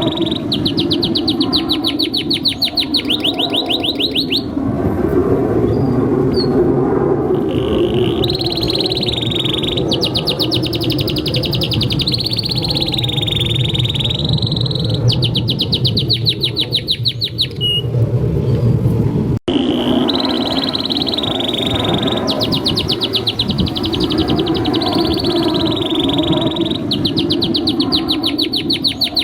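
Male domestic canary singing a long continuous song: high, rapid trills and rolls in repeating phrases, over a steady low background rumble. The song breaks off for an instant about two-thirds of the way through and picks up again.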